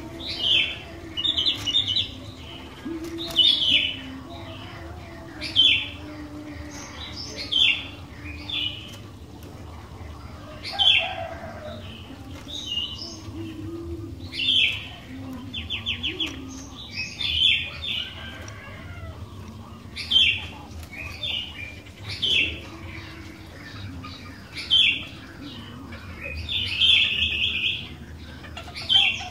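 Sooty-headed bulbul (kutilang) singing: short, loud whistled phrases repeated every second or two.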